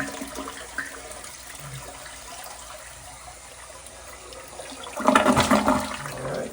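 Toilet being flushed, water rushing steadily through the bowl, with a louder surge of water about five seconds in that drops away near the end. The toilet has just been unclogged with an air-powered plunger and is being flushed again as a check.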